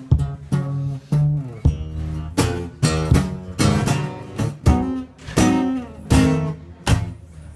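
Guitar strummed in a steady rhythm, chord after chord ringing out, as an instrumental passage between sung verses.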